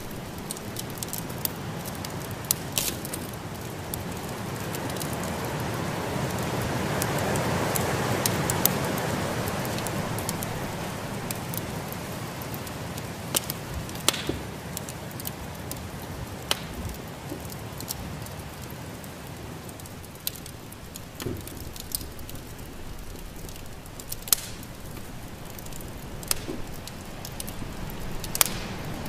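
Wood fire crackling in a fireplace, with sharp pops scattered throughout, over a steady rush of snowstorm wind that swells and fades during the first third.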